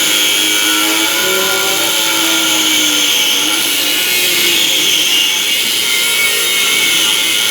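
Angle grinder grinding metal: a steady, loud, high-pitched grinding hiss.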